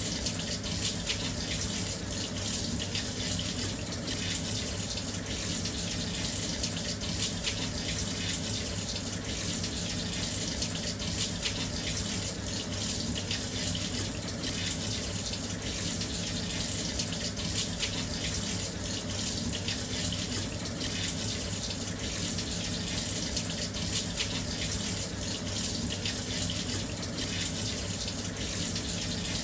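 Washing machine filling with water: a steady, unbroken rush of water pouring into the drum, with a faint low hum beneath it.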